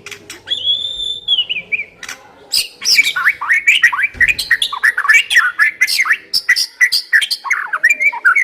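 White-rumped shama singing: one long clear whistle that falls away at its end, then, from about two and a half seconds in, a fast, varied run of short whistled notes and clicks.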